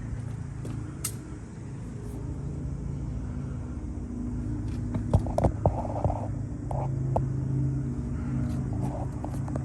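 Pickup truck engine running steadily, with a few sharp clicks about halfway through.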